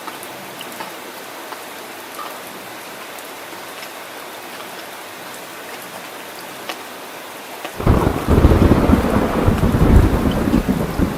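Steady rain falling, with scattered drops ticking through it; about eight seconds in, a loud, deep rumble of thunder rolls in suddenly and goes on to the end.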